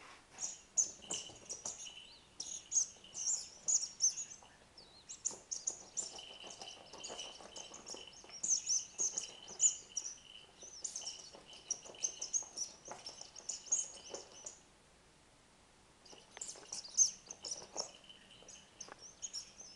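High, bird-like chirping and tweeting in quick runs over a steady high tone. It stops for about a second and a half past the middle, then starts again.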